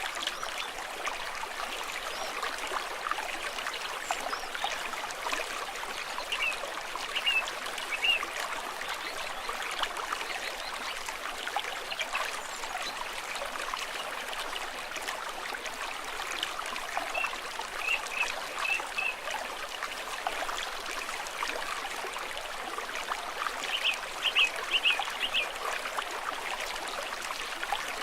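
Stream water flowing and trickling steadily. A bird calls in short bursts of three or four quick chirps a few times over it.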